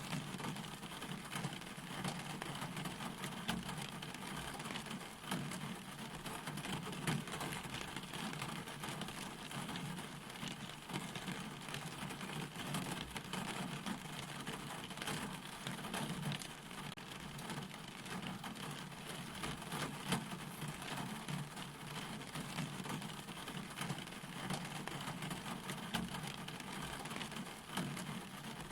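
Steady rain falling, an even hiss filled with many small drop ticks.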